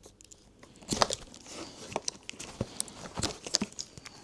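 Hard plastic motorcycle headlight units and fairing pieces being handled, giving irregular clicks, knocks and crinkling rattles. The loudest knock comes about a second in.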